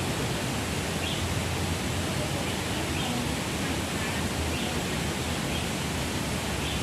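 Steady outdoor rushing noise, with faint short chirps repeating about once a second.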